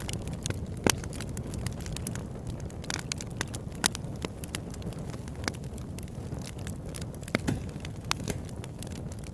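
Campfire burning with a steady low rumble and irregular sharp pops and crackles, a few louder pops standing out.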